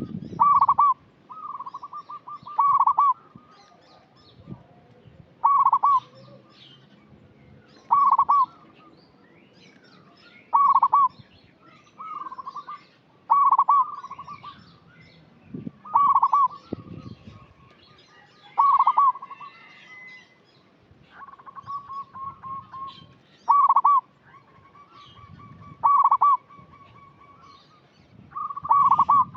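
Zebra dove (perkutut) cooing: short clear notes repeated every two to three seconds, some running on into longer held notes.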